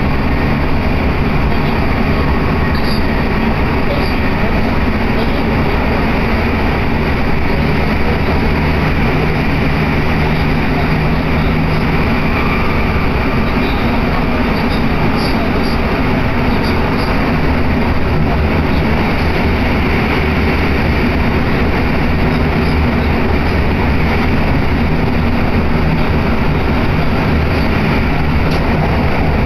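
Steady running noise heard from inside an electric commuter train car in motion: wheels on the rails and the car's running gear, even throughout with no stops or announcements.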